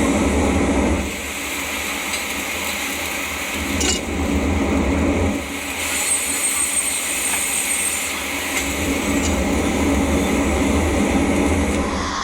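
Arc welding: a steady crackling hiss over a low hum, which drops back briefly twice, with a light metal clink.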